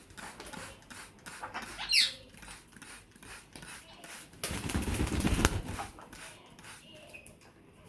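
African grey parrots bathing: scattered taps and rustles, one sharp falling whistle-like squawk about two seconds in, and a flurry of wing flapping and splashing for about a second and a half a little past halfway.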